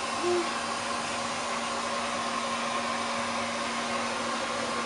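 Hand-held hair dryer running steadily: an even rush of air with a constant hum under it.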